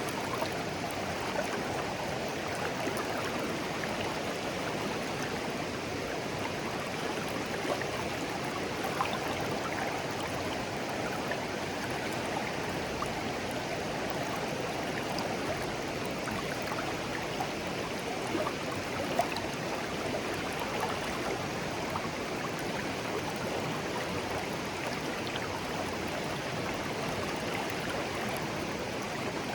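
A shallow clear stream flowing steadily over stones, a continuous babble with small plinks and gurgles and one slightly louder splash a little past the middle.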